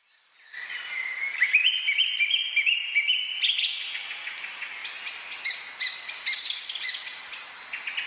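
Birds chirping, a quick run of many short, repeated chirps that starts about half a second in.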